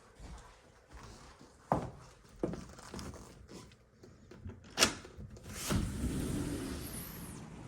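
Balcony door being unlatched and opened: a few knocks, then a sharp click, the loudest sound. After that a steady outdoor noise comes in and keeps going.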